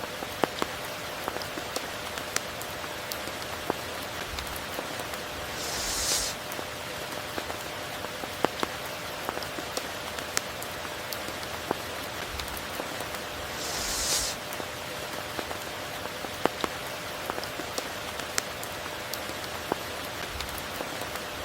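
Steady rain falling, with scattered sharp ticks of individual drops. Twice, about six and fourteen seconds in, a brief louder hiss swells up and fades.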